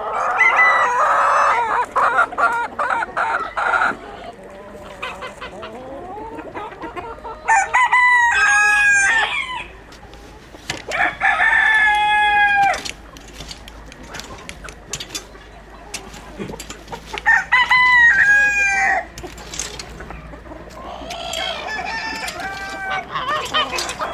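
Chickens clucking and cackling at the start, then a rooster crowing four times, each crow about two seconds long, the last one fainter.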